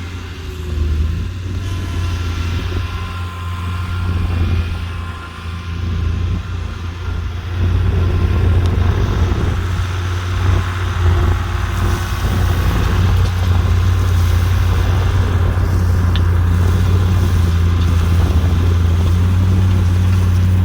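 A large engine running steadily with a deep hum, louder from about eight seconds in.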